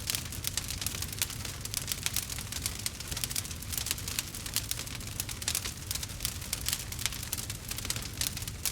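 Campfire crackling: a dense, irregular stream of sharp pops and snaps over a steady low rumble.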